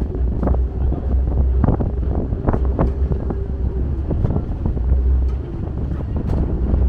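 Wind buffeting the microphone over the steady drone of a passenger ferry's engines under way.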